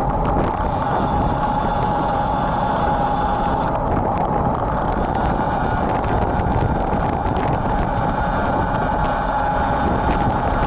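Wind rumbling on an action camera's built-in microphone while a road bike is ridden in stormy wind and rain, with a steady whine running underneath. A faint high ringing sits on top for the first few seconds.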